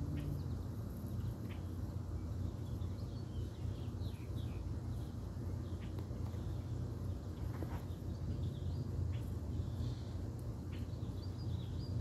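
Birds chirping now and then in short high notes, some in quick little runs, over a steady low rumble.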